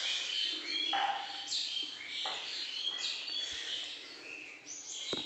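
Small birds chirping, many short high calls repeating and overlapping, with a couple of sharp clicks near the end.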